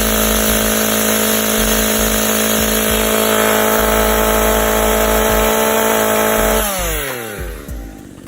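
Dolmar PS5000 two-stroke chainsaw running flat out at a steady high pitch. About six and a half seconds in the throttle is released and the engine winds down, falling in pitch and loudness.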